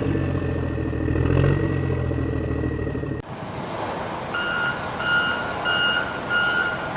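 A heavy vehicle's engine running steadily, cut off abruptly about three seconds in. A reversing alarm then starts beeping, one beep roughly every two-thirds of a second.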